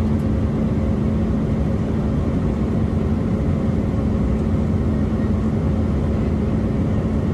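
Cabin noise inside an Embraer E175 jet airliner in flight: a steady low rumble of engines and airflow with a constant hum, unchanging throughout.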